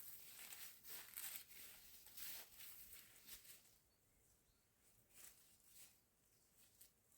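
Near silence with faint rustling and light clicks that thin out about halfway through.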